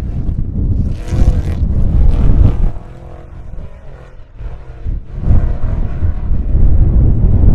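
Off-road race truck engines going past at speed, the engine note rising and falling about a second in and again around five seconds in. Strong wind buffets the microphone throughout.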